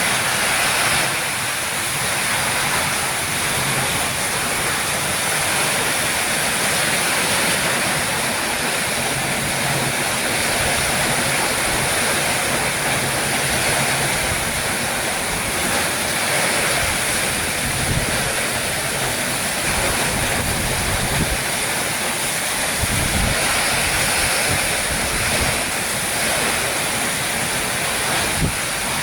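Heavy rain pouring down in a rainstorm, a dense steady hiss. A few low thumps come through in the second half.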